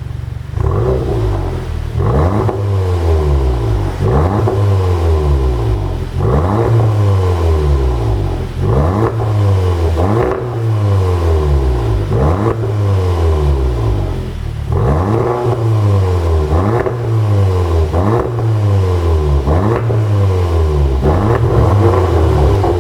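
The 2016 Audi TT S's 2.0-litre turbocharged four-cylinder is blipped up and let fall back about every two seconds. Its exhaust is tuned to pop and crackle on the overrun.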